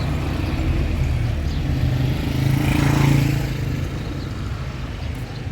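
A motor vehicle's engine running with road noise, swelling louder about three seconds in and then easing off.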